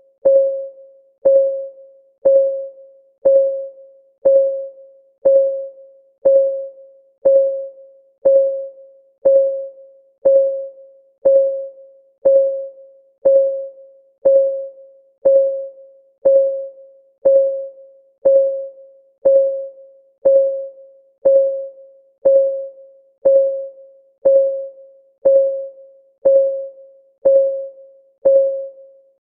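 Clock-ticking sound of a countdown timer: a steady tick about once a second, each a short pitched click that rings briefly and fades.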